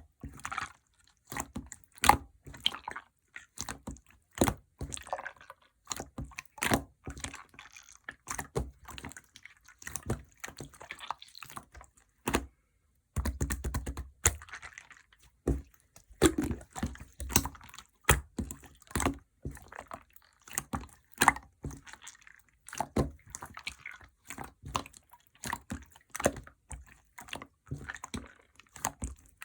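Clear slime being squished and pressed by hand, giving a rapid, irregular string of sharp wet clicks and pops, with a short silent break about halfway through.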